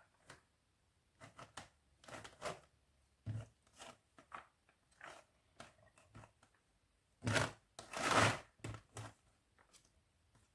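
A spoon spreading food out in a container: a series of short scrapes and taps, the loudest pair about seven to eight seconds in.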